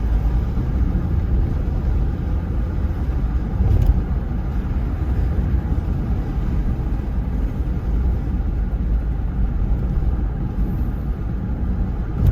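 Steady low rumble of a car driving, road and engine noise heard from inside the cabin, with a single bump about four seconds in.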